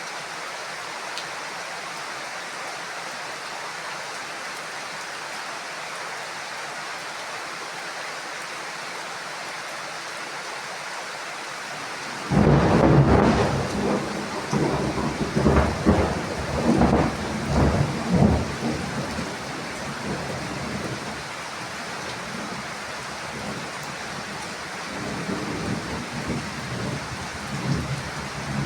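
Steady heavy rain hissing. About twelve seconds in, thunder breaks out with a sudden loud clap and rolls on in several peals for about seven seconds, then rumbles faintly again near the end.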